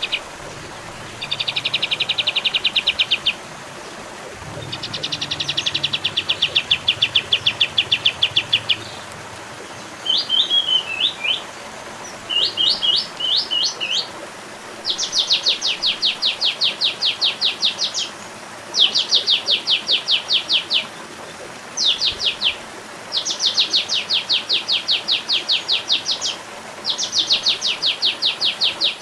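Olive-winged bulbul singing: bouts of rapid, evenly repeated high notes, each bout a second to a few seconds long with short pauses between, mixed with a few shorter twisting phrases.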